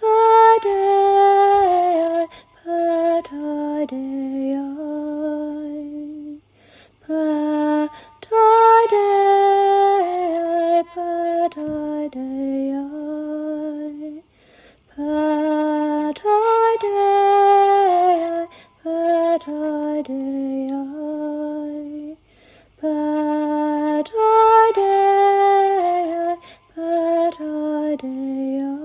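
A woman singing a slow, gentle channeled healing chant unaccompanied, in held notes. Each phrase starts high and steps down in pitch, and the phrase repeats about every eight seconds.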